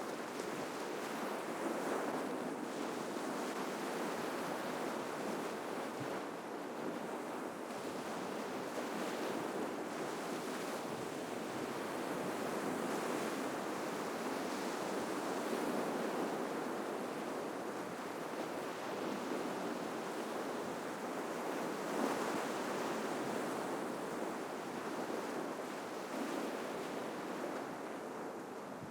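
Ocean surf breaking on a shoreline: a continuous wash of waves that slowly swells and eases, with one brief sharper hit about three-quarters of the way through.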